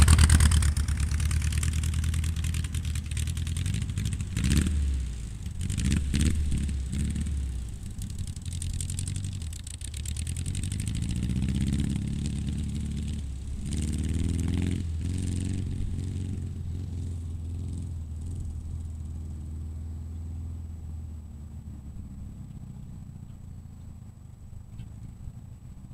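Engine of a VW Bug rat rod driving away, revving up several times through the gears in the first half while the sound fades steadily into the distance.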